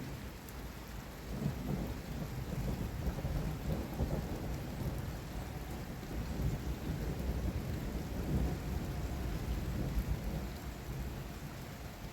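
Long rolling thunder rumble that builds about a second and a half in and fades near the end, over steady heavy rain.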